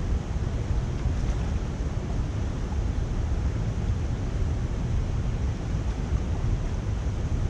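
Steady, unbroken rush of water pouring through a culvert drain, heavy and low.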